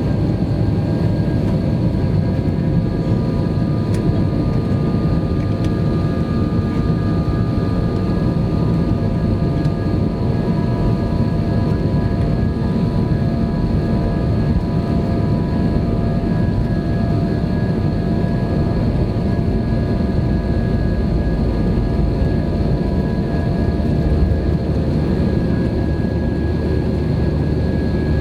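Airbus airliner's jet engines running at high thrust, heard inside the cabin: a loud, steady rush with several steady whining tones, one of which rises slightly at the start before holding level.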